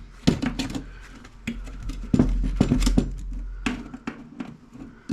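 Hand tools working in the old radio's metal chassis as its wiring and components are cut out: a quick, irregular run of sharp clicks and snaps, with heavier clunks of handling around the middle.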